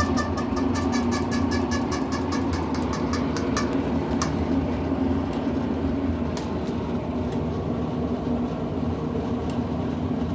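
Electrolux Turbo 8 kg (LM08) washing machine in its spin cycle: a steady motor and drum hum. A rapid, regular ticking of about five a second runs over the first few seconds and then thins to occasional clicks. The machine is spinning unbalanced, which the owner puts down to broken suspension springs.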